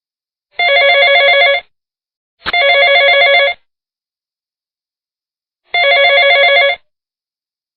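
Telephone ringing sound effect: three rings about a second long, each a rapid warble of several steady tones, separated by silences of about one to two seconds. A sharp click comes at the start of the second ring.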